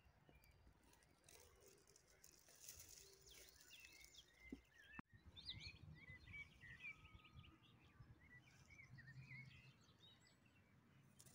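Faint birdsong: small birds chirping in quick, varied short notes over near-silent countryside.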